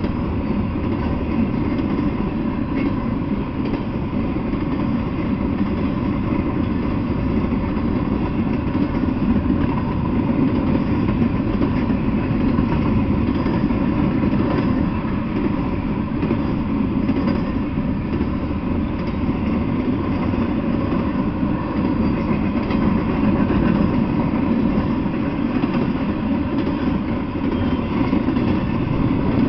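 Double-stack intermodal freight train rolling past: a steady rumble of wheels on rail, dull and with no treble as heard through a trail camera's small microphone.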